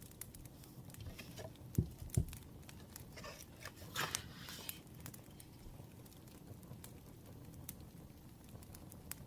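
Quiet desk sounds while studying: two soft knocks about two seconds in, then a rustle of paper around four seconds in, over faint, scattered crackling of a wood fire.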